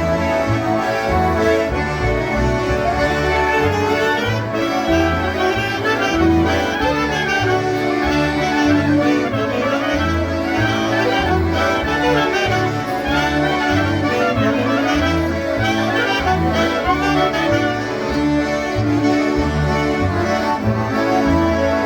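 A group of concertinas playing a polka together, with a steady oom-pah bass beat under the melody.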